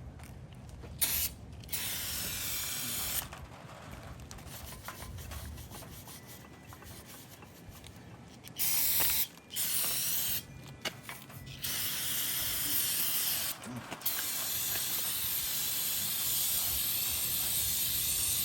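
Aerosol spray can hissing in a series of sprays onto a bare cast-iron engine block, some short and some longer, the last lasting about four seconds.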